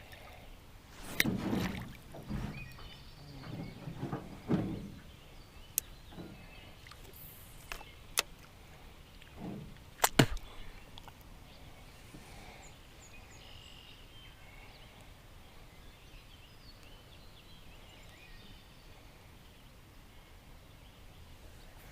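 Handling noises in a small jon boat: low thuds and rustling with a few sharp knocks over the first half, the loudest about ten seconds in. After that there is quiet outdoor background with faint bird chirps.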